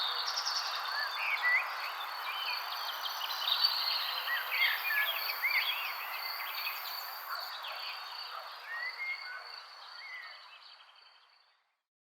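Many birds chirping with short rising and falling calls over a steady high-pitched insect-like drone and a soft outdoor hiss, fading out to silence near the end.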